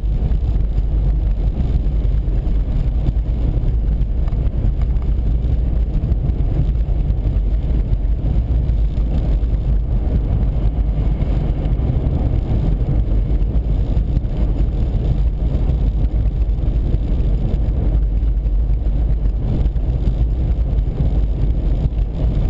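Steady low rumble of road and wind noise inside a moving car's cabin at highway speed.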